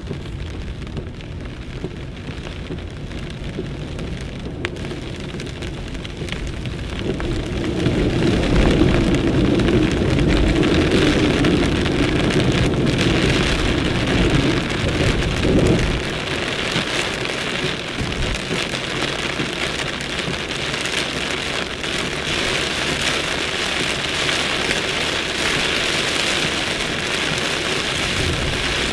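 Heavy rain pouring down in a violent thunderstorm, growing louder about a quarter of the way through, with a low rumble under it in the first half.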